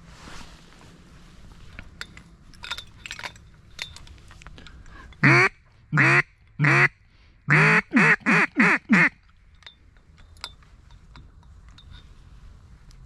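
Mallard-style duck call blown close by in a string of quacks: three spaced quacks, then five quicker ones.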